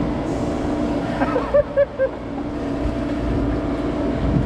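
Boat engine running steadily, with wind and water noise around it. About a second and a half in come three short, quick pitched blips.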